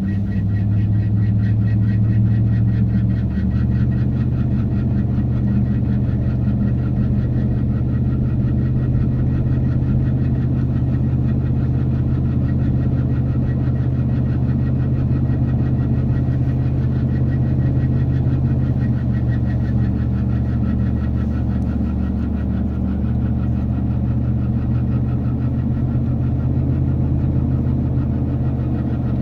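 2010 Dodge Ram pickup running steadily, with a low drone and a fast, even grinding pulse from the rear end.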